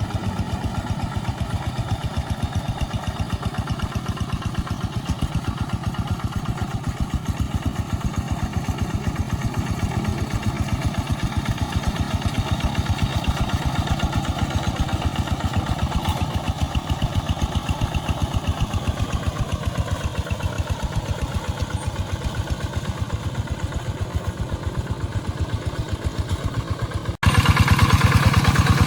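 Rice-field tractor's diesel engine running steadily with an even, fast chugging beat while plowing. The engine note dips slightly about two-thirds of the way through, and near the end it suddenly becomes louder.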